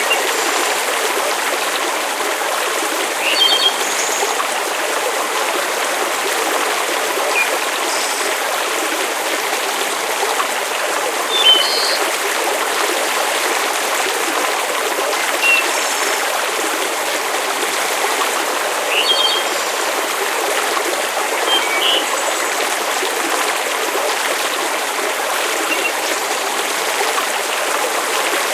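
Steady rush of water, like a flowing stream or heavy rain, with short high chirps every few seconds.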